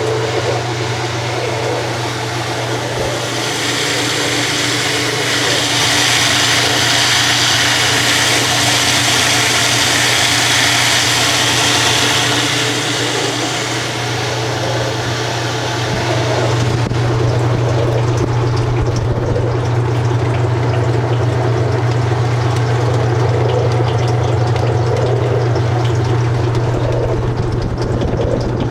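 Top-load washer's drain pump and motor running with a steady hum as the tub drains, with water rushing through from about three to fourteen seconds in. The hum then grows stronger.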